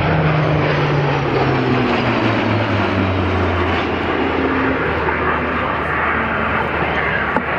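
Lockheed Martin CC-130J Hercules' four turboprop engines on a flypast, a loud steady drone whose low propeller hum drops in pitch between about one and four seconds in as the aircraft goes by.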